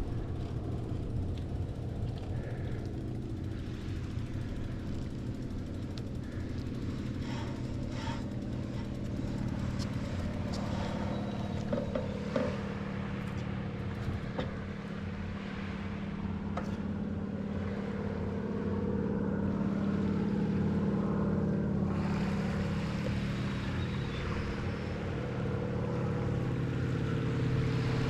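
A steady engine drone, several even tones together, growing louder about two-thirds of the way through, with a few sharp clicks along the way.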